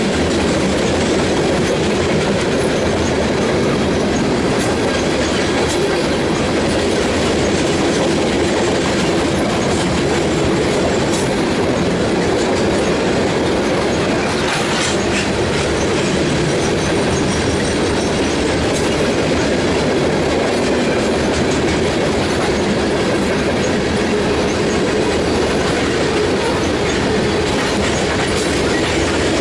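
CSX covered hopper cars of a freight train rolling past close by: a steady, loud rolling noise of steel wheels on the rails.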